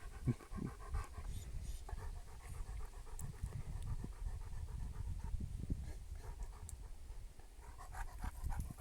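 A dog panting, quiet and rhythmic.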